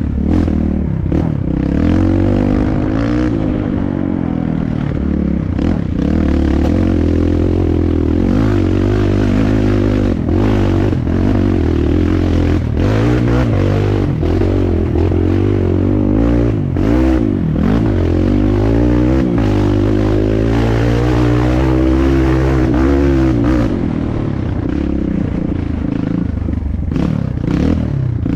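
Dirt bike engine being ridden, its revs rising and falling again and again, with scattered knocks throughout.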